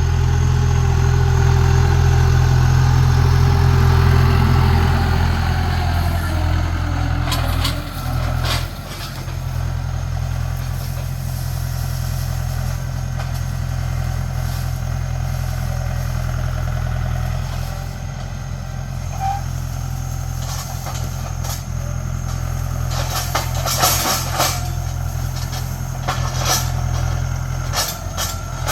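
Tractor engine running, its pitch falling as it slows over the first several seconds, then running steadily, with scattered clanks and rattles.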